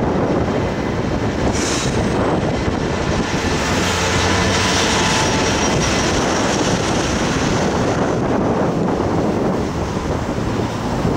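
Class 66 diesel-electric freight locomotive passing at speed, followed by a long train of loaded coal hopper wagons, their wheels running steadily on the rails. Wind noise on the microphone.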